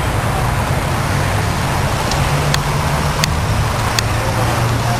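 Steady roadside traffic and engine noise, with a low hum from a motor running close by. Three short sharp clicks come in the second half.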